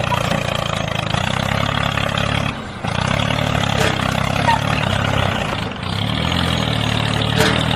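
Tractor engine running steadily, with two brief dips in level.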